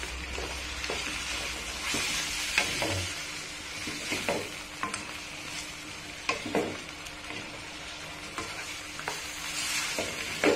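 Chicken feet frying with a steady sizzle in a wok of soy sauce. A wooden spatula stirs them, with scattered scrapes and knocks against the pan.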